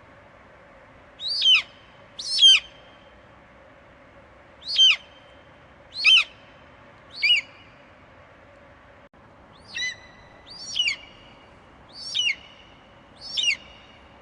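Eagle screeching: nine short, high calls, each falling sharply in pitch, in a run of five and then, after a short pause, four more. A faint steady hiss lies underneath.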